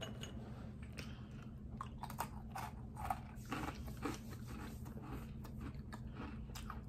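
Two people chewing and crunching sweets close to the microphone: scattered small crisp crunches and mouth sounds, thickest about halfway through, over a low steady hum.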